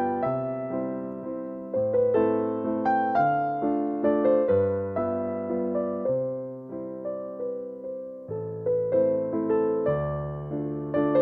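Soft background piano music: gently struck notes that ring and fade over a slow, changing bass line.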